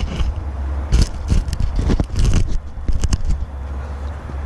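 Hands working on the measuring sensor and its parts: a scatter of sharp clicks, knocks and scrapes over a steady low rumble.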